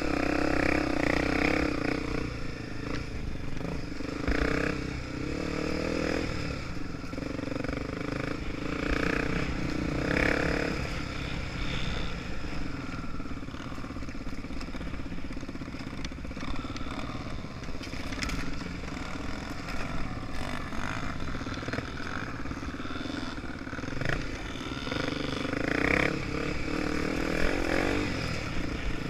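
Honda Tornado 250's single-cylinder four-stroke engine running under way, pulling hard for the first ten seconds or so, then easing off, and pulling again near the end, with clattering from the bike over rough ground.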